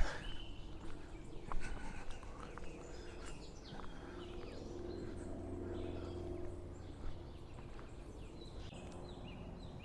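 Small birds chirping and calling in short scattered notes over a low, steady background rumble, with a couple of brief clicks.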